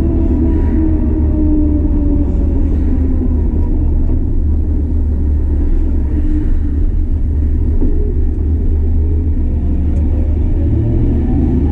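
1964 Plymouth Fury wagon's 383 V8 running with a steady low rumble. Its pitch sinks slowly over the first few seconds and climbs again near the end as engine speed drops and then rises.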